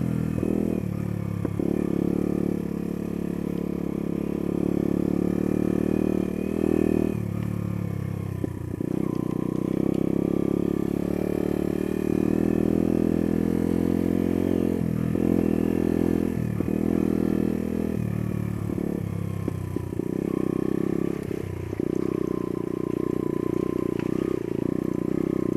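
Small single-cylinder off-road motorcycle engine pulling along a rough trail, the revs rising and falling as the throttle is opened and shut several times, with some clatter from the bike.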